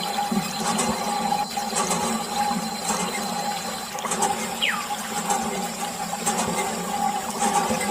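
Small electric water pump running with a steady hum while water sprays and splashes.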